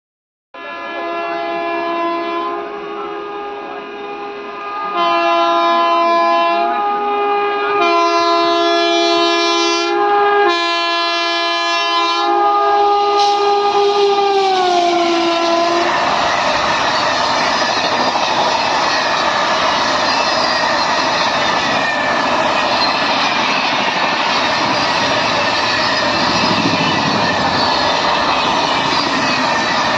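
Indian Railways WAP-7 electric locomotive's multi-tone horn sounding in about five blasts, the last one long and dropping in pitch as the locomotive passes. Then the steady noise and clickety-clack of the train running by on the rails.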